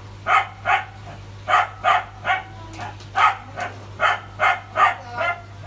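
A dog barking repeatedly in quick runs of two or three barks, about a dozen in all.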